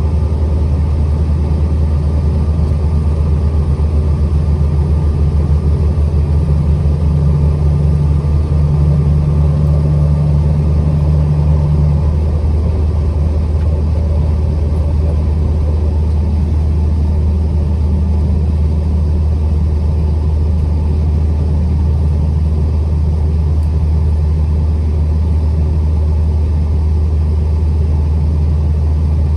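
Truck engine and road noise while driving: a steady, loud, low rumble. A humming tone stands out above it for about six seconds, then drops back.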